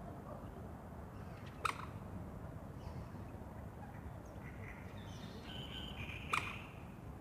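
Two short quacks from a wild duck, one about a second and a half in and one near the end, over faint bird chirps.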